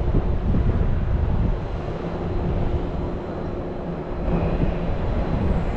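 Wind buffeting the microphone as a loud, uneven low rumble, with a faint steady hum underneath.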